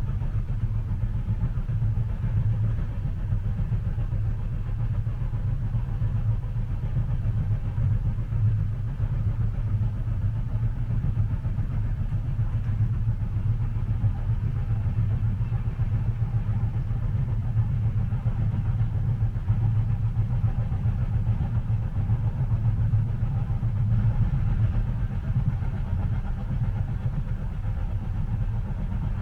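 Interior of a moving train carriage: a steady, deep rumble with a faint hiss above it, and no distinct rail-joint clicks standing out.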